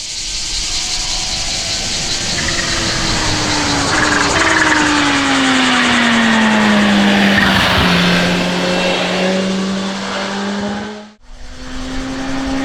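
Kawasaki Z H2's supercharged inline-four engine running, its pitch falling steadily over several seconds and then holding. Cicadas buzz throughout. The sound cuts out briefly about eleven seconds in and the engine resumes.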